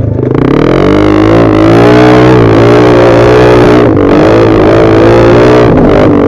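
Yamaha NMAX scooter's single-cylinder engine running under throttle. Its pitch climbs about a second in, then rises and falls as the throttle is worked.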